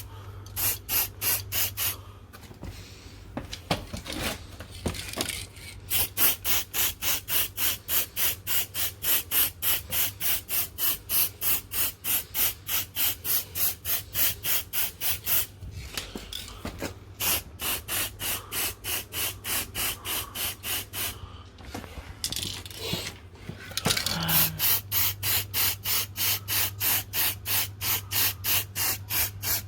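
Aerosol can of spray paint hissing in quick, regular short bursts, about three or four a second, with a few brief pauses along the way.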